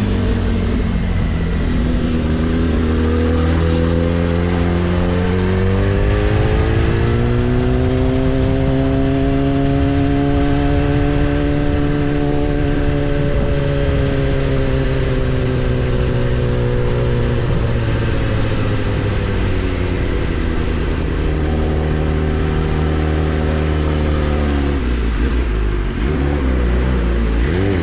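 Kawasaki ZX-10R's inline-four engine under way, its revs climbing smoothly for several seconds, easing back down, then holding steady while cruising.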